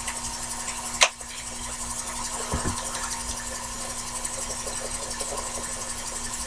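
Sherline mini lathe running with a steady motor hum while it takes a light cut on hard die-cast aluminium turned between centers. There is one sharp click about a second in.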